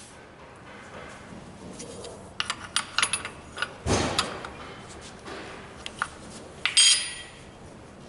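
Metal clinks and knocks of tools and parts being handled: a run of sharp clicks from about two and a half seconds in, a short scraping rush about four seconds in, and a metallic clink that rings briefly about seven seconds in.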